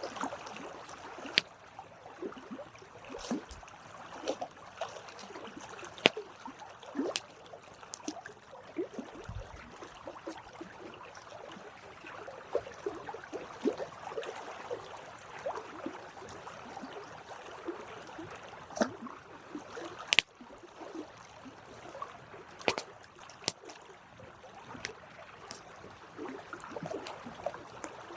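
Campfire burning, with a constant crackle of wood and sharp pops at irregular intervals, the loudest about twenty seconds in.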